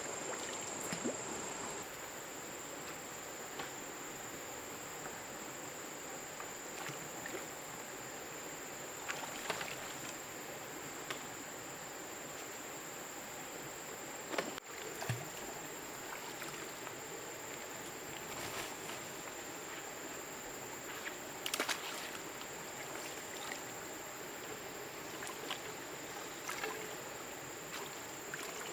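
Water sloshing and lapping, with scattered small splashes or knocks, loudest about halfway through and again about two-thirds in, over a steady high-pitched tone.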